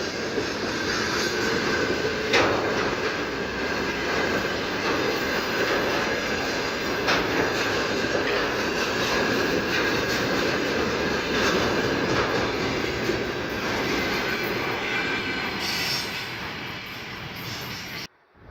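Freight train wagons rolling past: a steady heavy rumble of wheels on rail with a thin wheel squeal and a few sharp clacks over rail joints. It fades over the last couple of seconds, then cuts off suddenly near the end.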